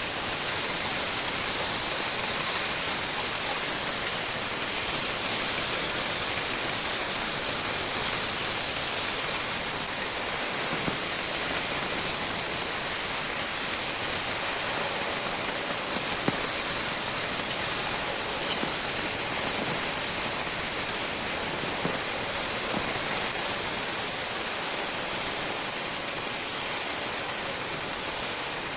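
Steady hissing noise, strongest and brightest in the high treble, with no clear strokes or tones.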